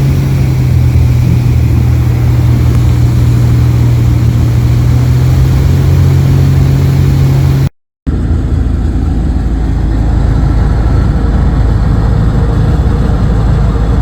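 Light aircraft engine and propeller running steadily with a strong low drone, cut off abruptly about eight seconds in and followed by a rougher, lower engine sound from another shot.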